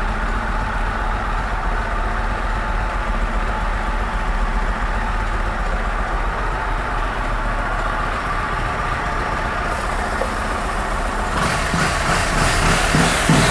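Yamaha Road Star Silverado's 1700 cc air-cooled V-twin idling steadily, then louder and rougher in pulses near the end as the throttle is blipped.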